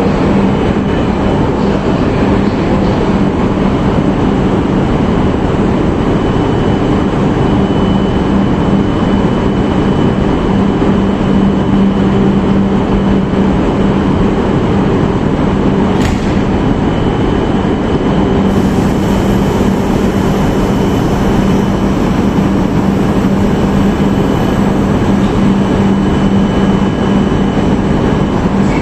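Stationary E5 series Shinkansen with its onboard equipment running: a steady loud hum and whir with a constant low drone. There is a single click about halfway through, and a higher hiss joins in a little later.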